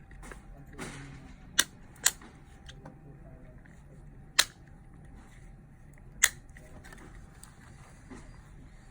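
Four sharp mechanical clicks at uneven intervals, two close together about a second and a half in and two more a couple of seconds apart, with a brief rustle of handling just before them, as a spring box mechanism is worked by hand.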